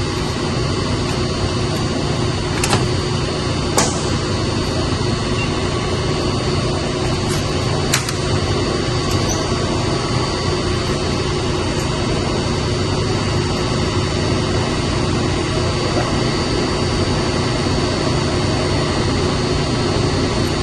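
Steady, loud drone of chiller plant-room machinery running, pumps and motors humming without letup. Three sharp clicks sound over it: two close together about three and four seconds in, another around eight seconds.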